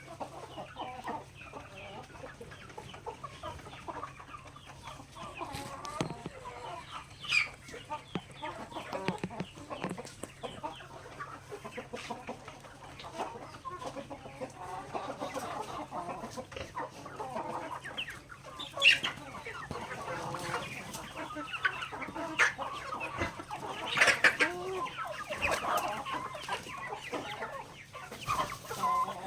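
A flock of chickens clucking steadily while feeding, with many short clicks of beaks pecking at grain and a few louder calls now and then.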